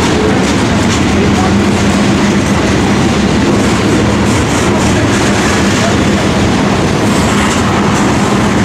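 Double-stack intermodal freight cars rolling past on steel rails, a loud steady noise of wheels on track with a low hum underneath and a few faint ticks.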